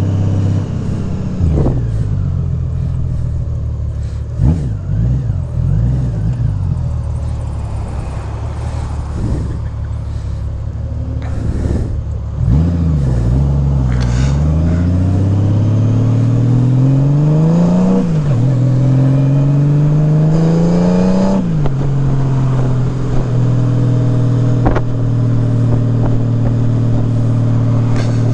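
2018 Honda Gold Wing Tour's flat-six engine through Shark Road aftermarket mufflers, pulling away and accelerating up through the gears, its pitch climbing and dropping back at each shift. About 21 seconds in it settles into a steady cruise with a constant droning note, the drone the rider hears from the Shark Roads at around 3,000 rpm.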